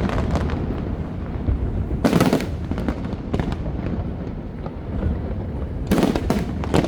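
Fireworks display: a continuous low rumble of explosions, with sharper crackling bursts about two seconds in and again around six seconds in.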